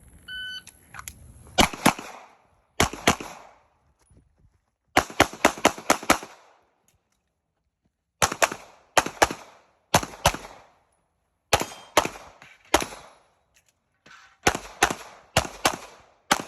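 A competition shot timer beeps once, then a pistol fires through a USPSA stage: sharp shots mostly in quick pairs and short strings, with brief silent pauses between groups while the shooter moves and reloads.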